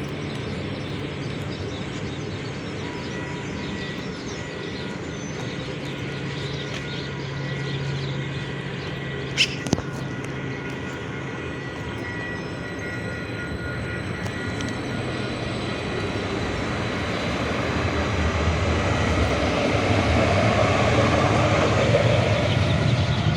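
Steady running noise of a moving vehicle with a low hum, growing louder over the second half, with two sharp clicks about nine and a half seconds in.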